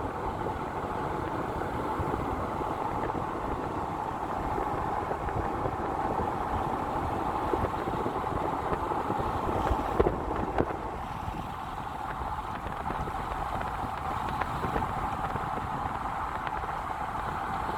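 Car driving along a road: steady engine and tyre noise, with a single short knock about ten seconds in.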